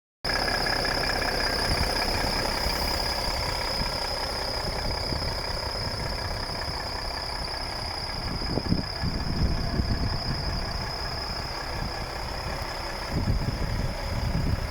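Volvo FH 460 truck's 13-litre straight-six diesel engine idling steadily, with a constant high-pitched whine above the low rumble.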